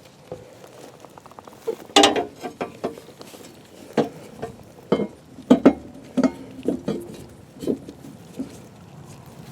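Tools and parts knocking and clattering as they are handled, about a dozen irregular knocks with the loudest cluster about two seconds in.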